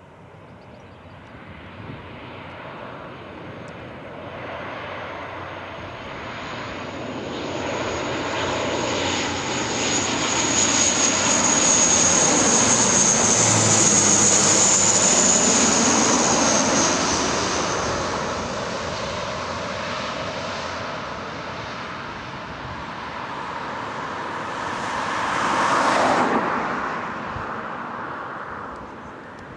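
Military aircraft flying past overhead: engine noise with a high whine swells to its loudest mid-way and fades, then a second, shorter pass swells and drops away near the end.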